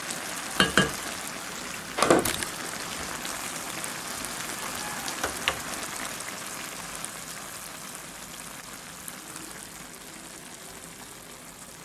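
Chopped saffron milk caps sizzling in their gravy in a frying pan, a steady hiss that slowly grows fainter. Two knocks come in the first couple of seconds.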